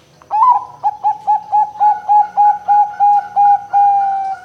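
Zebra dove (perkutut, Bangkok song line) singing: an opening note, then a quick run of about a dozen short coos at roughly four a second, ending in one long, slightly falling note.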